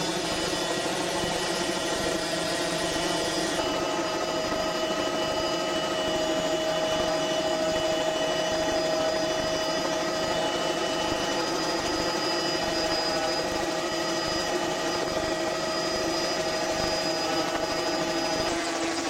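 An engine running steadily at constant speed, with a fast, even pulsing beat under several steady tones.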